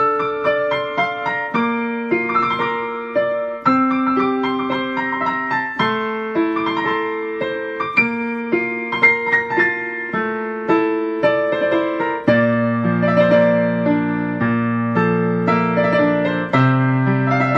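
Solo piano music playing a slow, gentle melody over chords, with deeper bass notes joining about twelve seconds in.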